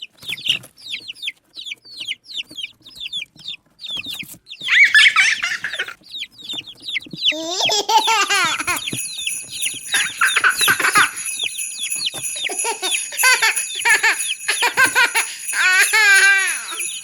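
Chicken sounds: a quick run of short, high, falling peeps for the first few seconds, then louder calls that bend up and down in pitch from about halfway in.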